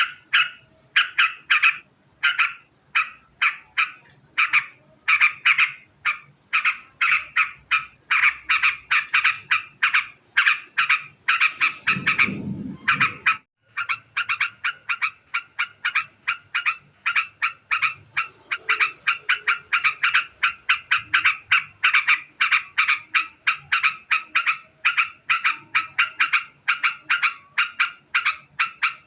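Yellow-vented bulbul (trucukan) giving its 'ngekek' call: long, very fast runs of short chattering notes, repeated over and over. About twelve seconds in there is a brief low rumble, then a short break before the chatter resumes.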